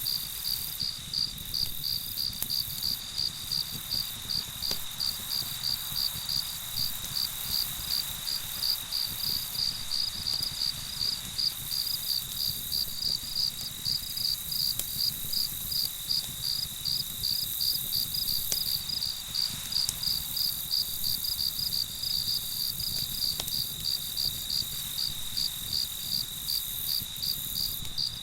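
Crickets chirping in a steady rhythm, about three high chirps a second, over a continuous high insect trill and a low steady rumble.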